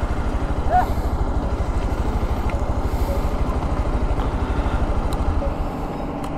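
Motorcycle engine idling with a steady low pulse, which drops away about five and a half seconds in.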